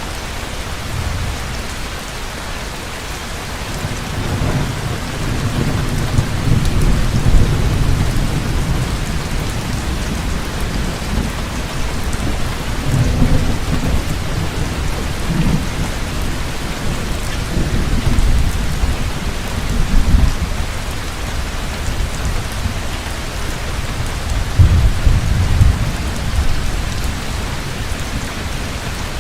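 Heavy, steady rain with rolling thunder. The low rumble swells about four seconds in, then comes and goes several more times, loudest near 7 s and again around 25 s.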